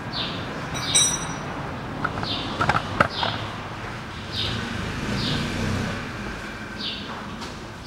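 A bird giving short downward-sliding chirps, about one a second, over a steady low background rumble, with a few sharp knocks a couple of seconds in.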